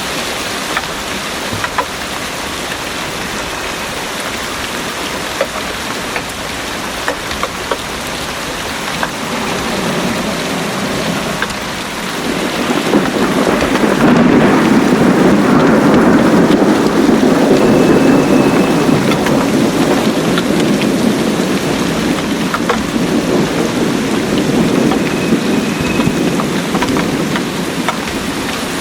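Heavy rain falling steadily, with a long rolling thunder rumble that swells about twelve seconds in and slowly fades away over the next ten seconds or so.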